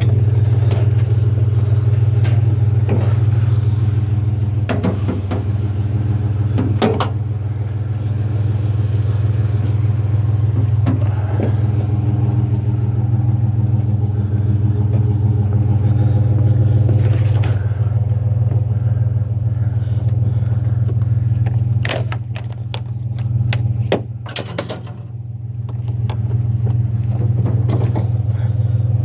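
Truck engine idling steadily, with scattered knocks and clicks as a strap is thrown and pulled over a refrigerator loaded in the truck.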